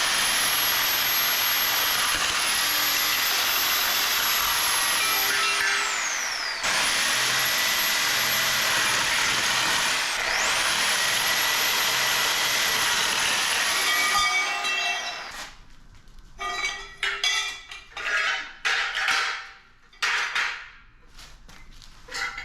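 A high-speed electric power tool working on aluminium scrap: two long runs, each spinning up with a rising whine and winding down as it coasts to a stop, the first about 6 seconds in and the second about 14 seconds in. After that comes scattered knocking and clatter of metal parts being handled.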